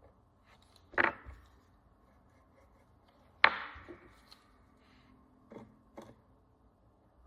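Sharp knocks of hard objects on a hard work surface during coin cleaning. Two loud knocks come about two and a half seconds apart, the second with a short ring, then two fainter clicks near the end.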